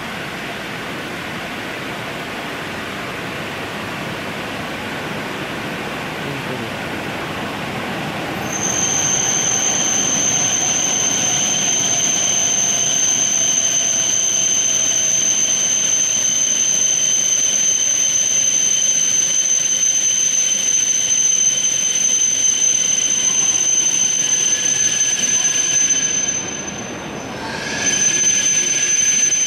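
E7 series Shinkansen train pulling into a station and slowing to a stop, over a steady hiss of rain. A whine falls in pitch as it slows. From about a third of the way in, a loud steady high-pitched whine sets in and holds, dipping briefly near the end.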